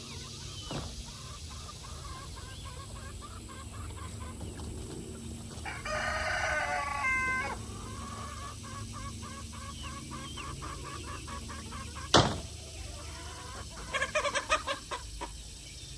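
Chickens clucking in quick runs, with one long call like a rooster's crow about six seconds in. A single sharp knock comes about twelve seconds in, followed by a burst of loud squawking near the end.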